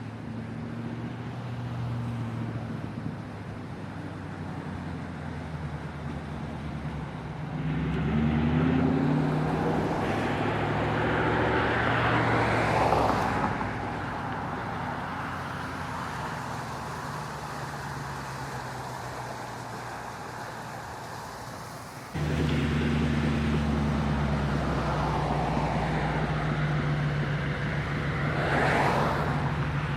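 Cars and trucks driving past on a street, engines running and tyre noise swelling and fading as each one goes by, twice clearly. About two-thirds of the way through, a louder, steady engine sound comes in suddenly.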